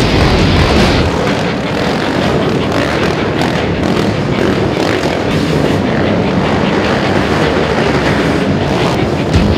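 Racing ATV (quad) engines running and revving hard, a dense buzzing with rapid rises and falls; backing music stops about a second in and returns near the end.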